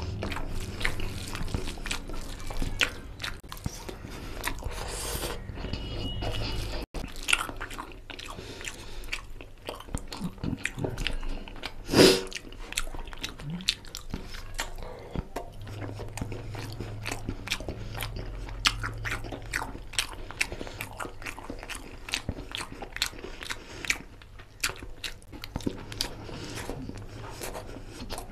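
Close-miked chewing and mouth sounds of a person eating curry-soaked rice and chicken by hand: a steady run of short wet clicks and smacks, with one louder smack about twelve seconds in. A low hum comes and goes underneath.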